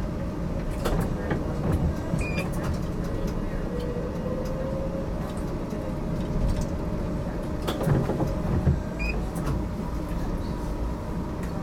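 HTM GTL8 articulated tram running on street track, heard from inside: a steady low rumble with scattered knocks and clicks from the wheels and a faint wavering squeal.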